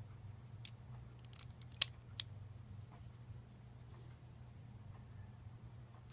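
Four sharp clicks and taps of small hard parts being handled while a lightsaber replica hilt is taken apart. The loudest comes about two seconds in, and a faint low hum runs underneath.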